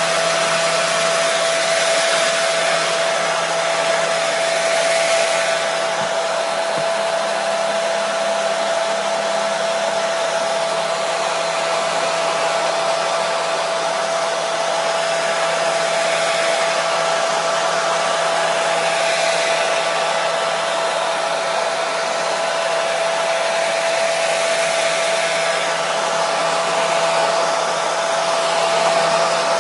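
Hair dryer running steadily: an even rushing blow of air with a steady motor hum underneath.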